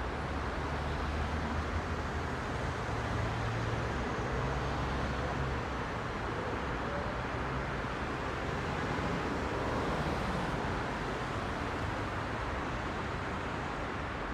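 Heavy road traffic: a steady wash of car engines and tyres, with a deeper engine rumble from a passing vehicle in the first half that then fades into the general flow.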